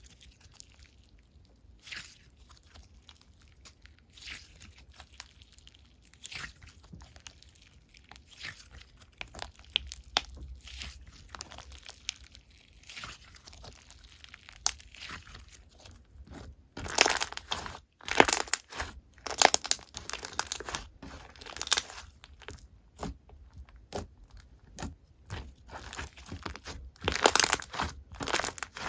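Hands kneading and pressing slime, with crunchy crackling and small popping clicks. The sounds get louder and denser about two-thirds of the way in and again near the end.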